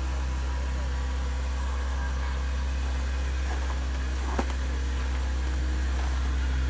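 Off-road vehicle engine running steadily as a low drone, with a single sharp click about four and a half seconds in.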